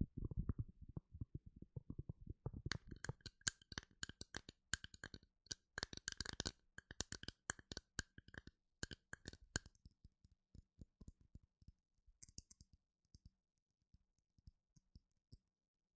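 A run of close, quick taps and clicks: dull, low taps at first, turning brighter and sharper about three seconds in, then thinning out to sparse faint taps after about ten seconds.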